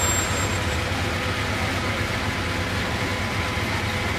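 Classic roadster's engine running at low speed as the car creeps past in a slow queue of cars: a steady low hum.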